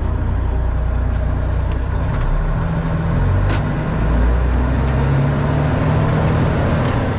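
Heavy diesel truck engine running steadily, its low note shifting a little partway through, with a few faint clicks.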